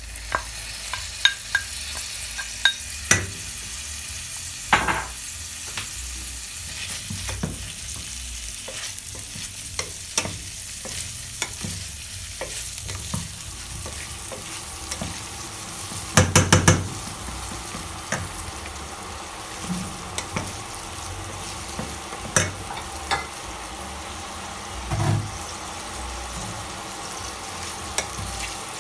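Meatballs and cauliflower sizzling in a stainless steel frying pan as a wooden spatula stirs them, with scattered knocks of the spatula on the pan. A quick run of louder knocks comes a little past halfway.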